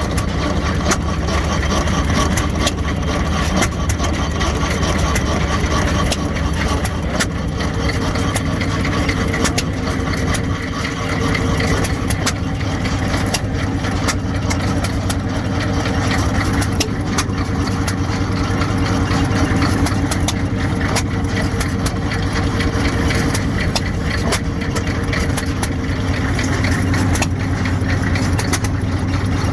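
Fairbanks Morse Model Z single-cylinder hit-and-miss engine running steadily, with many sharp clicks over a low engine rumble.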